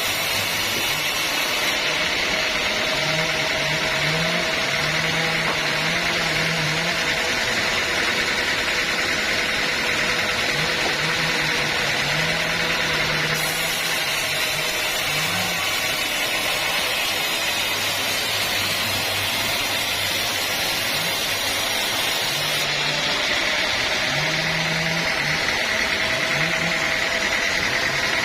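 Band sawmill running steadily, its engine and blade making a continuous mechanical drone while sawing teak logs.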